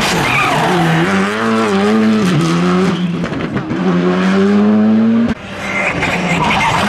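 Rally car engine under hard throttle, its note rising steadily, then breaking off sharply with a crack about five seconds in before picking up again.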